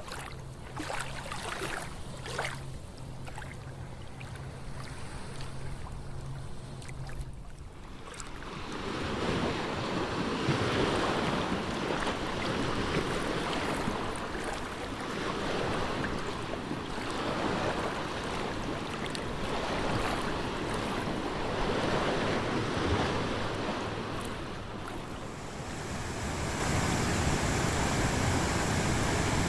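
Rushing water noise, like surf, that swells up about eight seconds in after a quieter stretch with a faint low hum, and grows louder again near the end.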